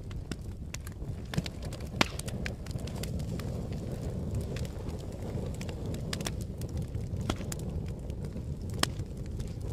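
Wood fire burning with a steady low rumble and scattered sharp crackles and pops, the loudest about two seconds in and again near the end.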